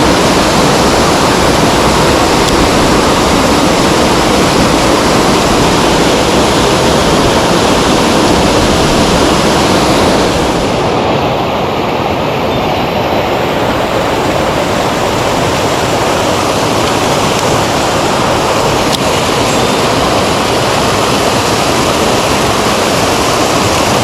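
Loud, steady rush of a mountain stream's flowing water, easing off a little about ten seconds in.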